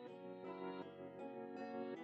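Gentle background music: a soft plucked-string and keyboard melody with notes changing every half second or so.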